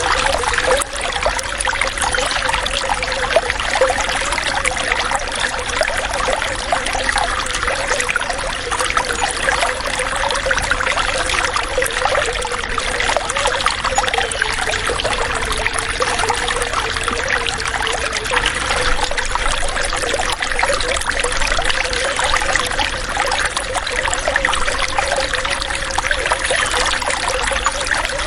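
Running water trickling and splashing in a continuous, even flow, with a steady low gurgle.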